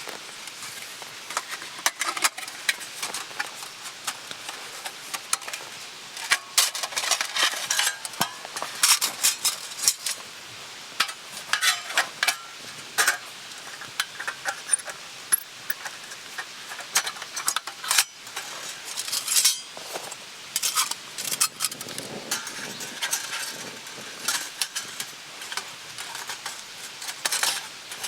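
Metal utensils clinking and scraping against cookware in many irregular short strikes, over a steady faint hiss.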